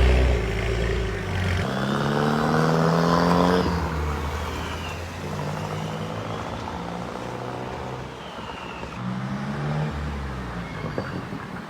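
VUHL 05's turbocharged engine under hard acceleration: its pitch climbs steeply about two seconds in, drops back at a gear change, and climbs again near the end. A faint high whistle rises and falls above it.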